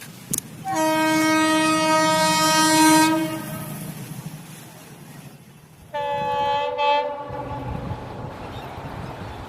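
Horn of an approaching WDG-4D diesel locomotive: one long blast of about two and a half seconds, then after a pause a shorter second blast of about a second and a half. The low rumble of the approaching train follows.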